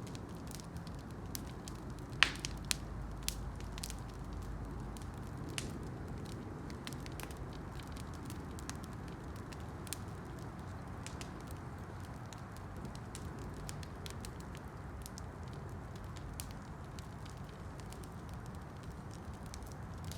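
Campfire burning: a steady low rush of flames with scattered crackles and pops, the loudest a sharp pop about two seconds in followed by a few smaller ones.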